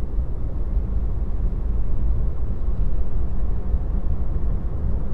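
Steady low rumble of road and tyre noise inside the cabin of a Tesla electric car driving along, with no engine sound.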